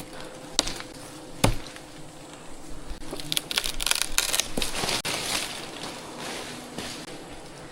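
Crackling, rustling handling noise with a couple of sharp knocks early on, the rustling thickest in the middle.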